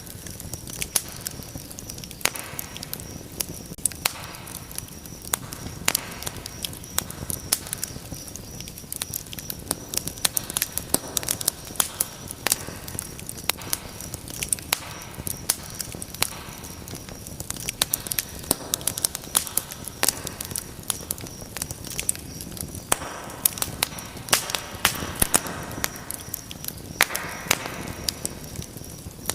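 Wood fire crackling in a fireplace: many irregular sharp pops and snaps over a steady low hiss of burning.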